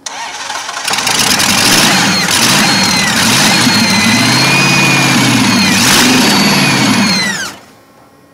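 Supercharged drag-car engine running and being revved up and down, a high whine rising and falling with the revs; the sound stops abruptly about a second before the end.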